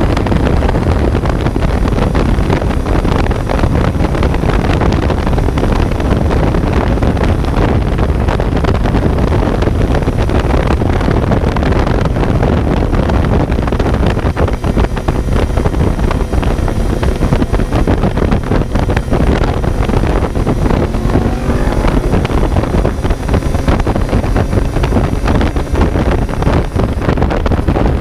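Kawasaki Z900's inline-four engine running on the move, with heavy wind noise on the microphone. In the second half a fainter engine note can be heard rising and falling with the revs.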